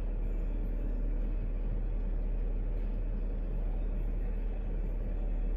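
Steady low rumble of a vehicle running, even throughout with no distinct events.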